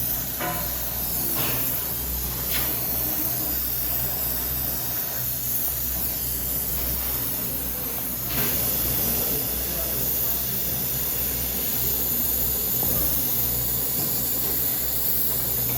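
Steady hissing throughout, with a few short knocks in the first few seconds and another about eight seconds in.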